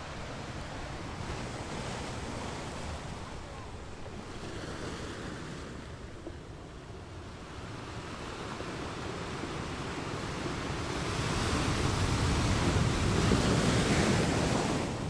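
Sea waves washing against a pier: a steady rush of surf that slowly builds to a loud surge near the end, then falls away quickly.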